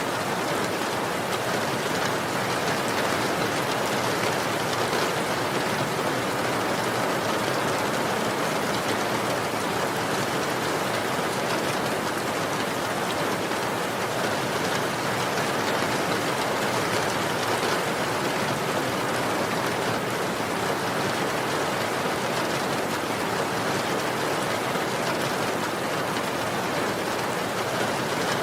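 Steady rain falling, an even, unbroken patter with no distinct drops or thunder standing out.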